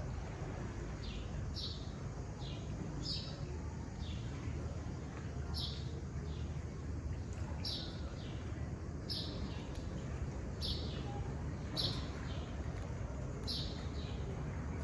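A small bird chirping over and over: short, high, downward chirps roughly every second or two, over a steady low background hum.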